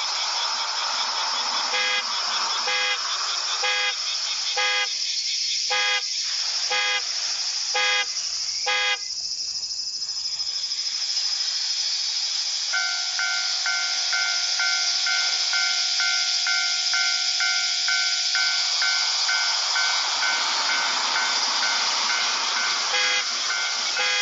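Japanese railway level-crossing warning bell ringing, a repeated electronic ding. The dings come about once a second at first, stop for a few seconds around the middle, then resume at a faster, steady pace, over a constant high hiss.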